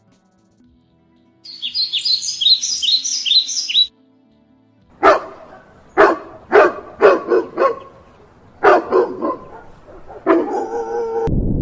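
A bird chirping in a quick run of high notes, then a dog barking about seven times in two groups, followed by a short pitched call.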